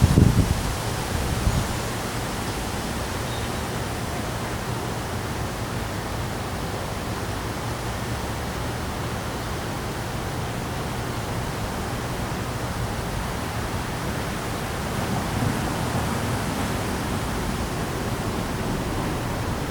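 Strong storm wind with rain: a steady rushing noise, with gusts buffeting the microphone in loud low bumps right at the start and again about a second and a half in, and a slight swell near the end.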